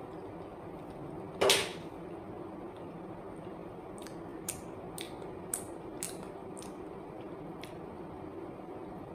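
Close mouth sounds of a person eating banana: one louder, brief wet noise about a second and a half in, then a series of small clicks from the lips and mouth while chewing, over a steady low room hum.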